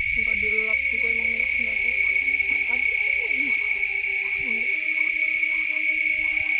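Night insect chorus in the forest: a loud, steady, high-pitched drone of crickets or cicadas, with short repeating chirps above it and fainter wavering calls lower down.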